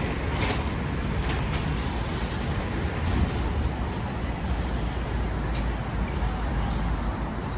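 City street traffic noise: a steady low rumble of passing cars and buses, with a few light clicks in the first two seconds.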